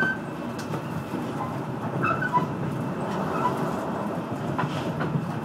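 Passenger train running at speed, heard from inside the carriage: a steady rumble of wheels on rails with scattered clicks and a few short squeaks.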